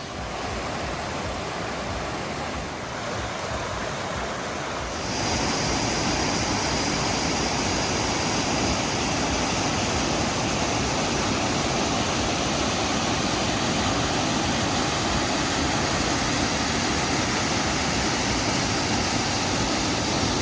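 Waterfall pouring steadily, a continuous rush of water that gets louder and brighter about five seconds in.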